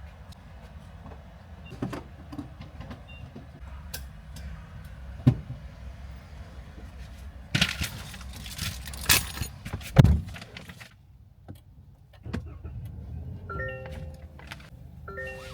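A car idling, heard from inside, with scattered clicks and handling knocks. There are a few louder rustling bursts and one loud thump about ten seconds in, and two short electronic beeps near the end.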